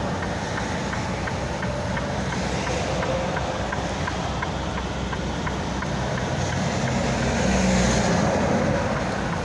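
Big-rig truck heard from inside the cab while driving slowly: a steady engine hum with road and wind noise. It swells louder about seven to eight seconds in, and faint regular ticking comes through underneath.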